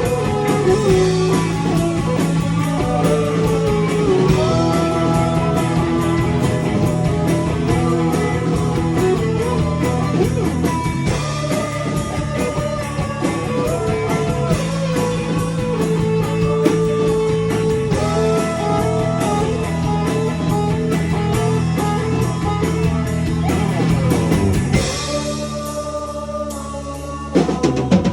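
Rock band playing in rehearsal: an electric guitar carries a held, sliding lead melody over bass guitar and drum kit. Near the end the band thins out for a couple of seconds, then comes back in with a sudden loud hit.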